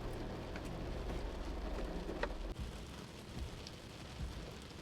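Rain falling on a car roof, heard from inside the car as a steady patter. A low hum stops about a second in, and there are a few light ticks.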